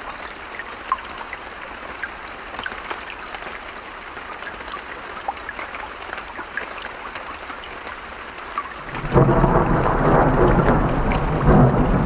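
Steady rain with scattered drop taps, then about three-quarters of the way through a loud rolling thunder rumble breaks in and carries on to the end.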